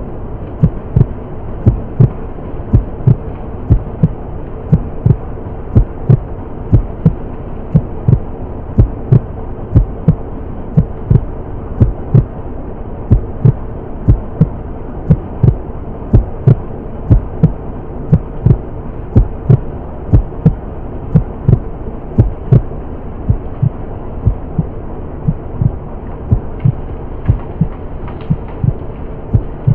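Heartbeat sound effect: steady low thumps about twice a second over a constant hum.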